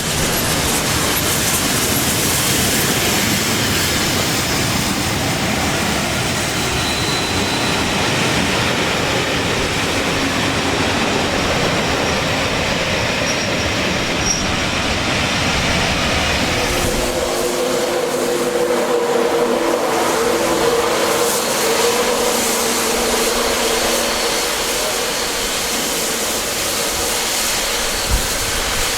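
Coaches of a steam-hauled passenger train rushing past at speed, a steady wheel-on-rail roar. About 17 seconds in, the deep rumble falls away and several steady squealing tones sound together for some seconds, with a single sharp click near the end.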